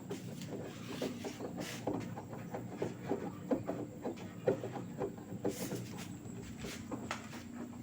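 LG 8 kg direct-drive washing machine running its Cotton 60 °C wash: a steady low hum with many small, irregular knocks and clicks.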